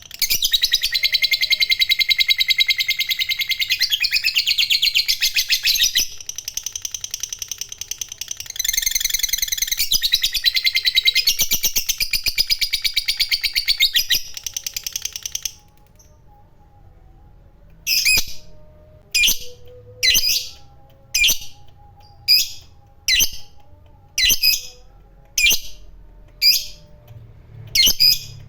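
Lovebird giving a long ngekek: a fast, shrill chattering trill for about fifteen seconds, briefly dipping once. After a short pause it moves to single sharp chirps at about one a second.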